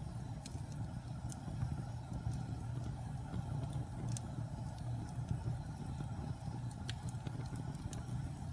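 Wood fire burning in a fireplace: a steady low rumble with scattered sharp crackles and pops, a few seconds apart.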